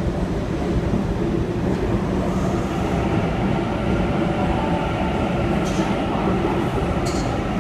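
Sydney Trains Waratah electric passenger train pulling into the platform: a steady rumble of wheels on rails, with a steady electric whine coming in about two seconds in.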